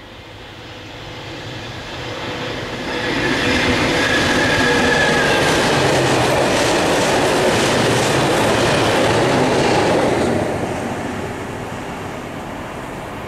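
Loram C21 rail grinding train passing at speed on the nearest line: diesel engines and wheels on rail swell over about three seconds, stay loud for about seven seconds with a rhythmic clatter of wheels over the rail joints, then fall away near the end.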